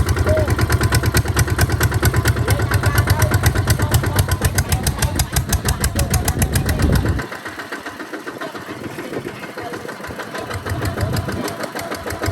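Kubota tractor's diesel engine running with a rapid, even beat. About seven seconds in the low, heavy part of the sound drops off sharply and the engine goes on more quietly.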